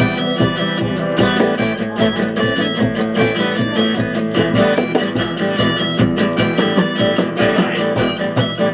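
Rock band playing the instrumental intro of a song live: strummed guitars over a steady, even beat, with no singing yet.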